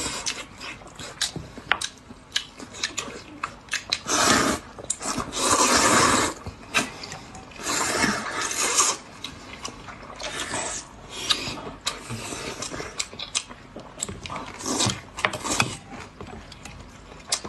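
Close-up eating sounds: chewing and slurping food, with scattered small clicks and several louder noisy bursts of about a second each between about four and nine seconds in.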